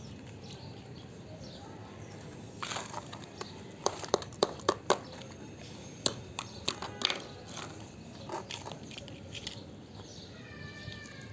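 A series of sharp clicks and knocks over a steady hiss, with a quick cluster of about five some four seconds in.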